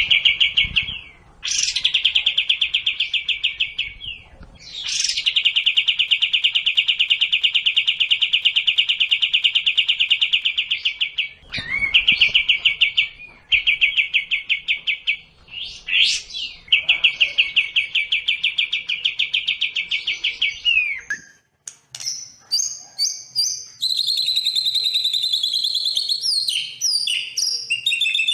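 Recorded birdsong of sekoci and white-rumped shama. First come several long, rapid, high buzzing trills, each lasting a few seconds with short gaps between them. After a brief pause, from about three-quarters of the way in, there are varied, higher whistled phrases.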